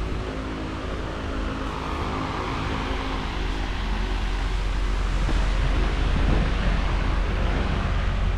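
GMC Sierra 1500's 5.3L V8 engine running steadily.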